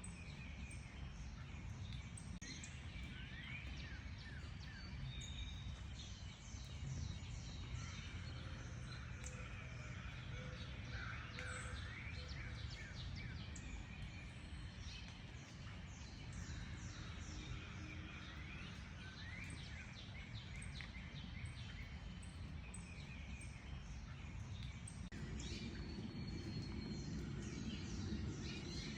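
Several small songbirds chirping and trilling over a steady low background rumble.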